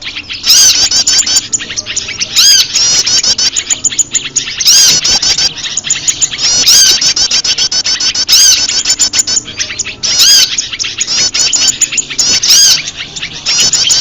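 Bird-lure recording of prenjak lumut calls mixed with a chorus of other small birds calling in alarm: fast strings of high chirps in bursts about every two seconds, with scattered calls between them.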